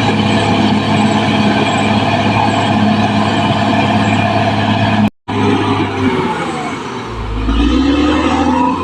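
Caterpillar D6R XL bulldozer's diesel engine running steadily under work. It breaks off for a split second about five seconds in, then the engine note dips and climbs again near the end.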